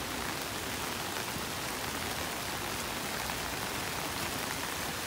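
Steady rain falling, mixed with storm water gushing out of a cleared drainage pipe and running along a ditch.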